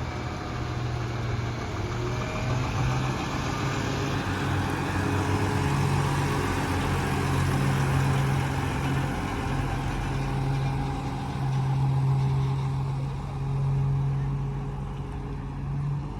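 A heavy truck's engine running steadily with a low, even hum.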